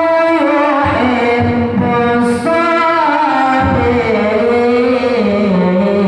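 A solo voice singing a slow, ornamented melody, holding long notes that slide and waver between pitches.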